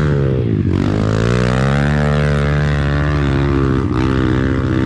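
Off-road vehicle engine revving hard under load on a hill climb. The revs dip briefly about half a second in and again near the end, then climb back up.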